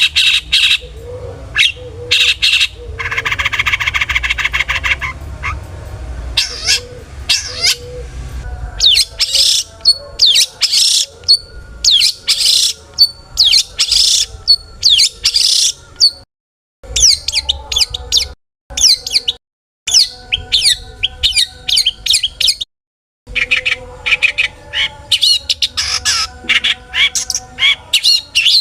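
Long-tailed shrike (cendet) singing hard: a loud, varied run of sharp chirps and harsh squawking calls. There is a buzzy rasping phrase about three seconds in, and a few brief silent breaks in the second half.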